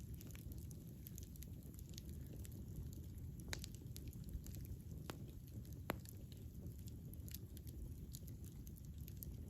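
Campfire burning: a low steady rumble of flames with scattered small wood crackles and pops, a few sharper snaps about three and a half, five and six seconds in.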